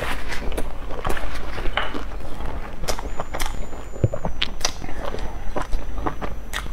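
Close-up mouth sounds of a person chewing a soft pan-fried stuffed bun: irregular wet clicks and smacks, several a second.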